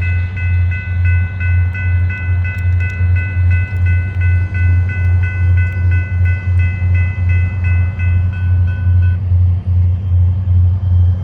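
Rapid, evenly pulsed high ringing of a railroad grade-crossing warning bell, which stops suddenly about nine seconds in. Under it, the loud, steadily pulsing low rumble of a passing freight train runs on.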